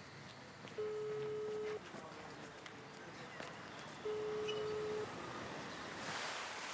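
Telephone ringback tone: a steady beep about a second long, heard twice, as a call rings on the line. Near the end, the rush of ocean waves swells in.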